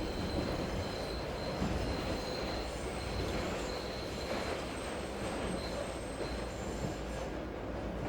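A train running on rails with a low rumble and a high, steady wheel squeal that fades out after about five seconds.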